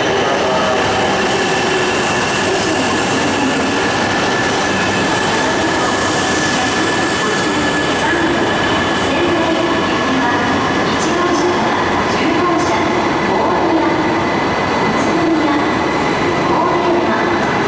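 Shinkansen train running along the platform: a steady, loud rumble of wheels and motors with a held high tone and a few light high-pitched ticks in the second half.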